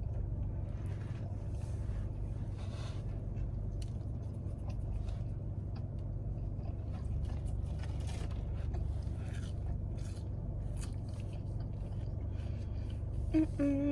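A person chewing and eating, with faint crunches and rustles, over a steady low hum. A short hummed voice sound comes near the end.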